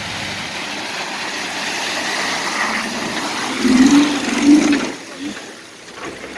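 An off-road vehicle driving through a river crossing, with a steady rush of splashing water that builds and then dies away about five seconds in. Two short shouts come about four seconds in.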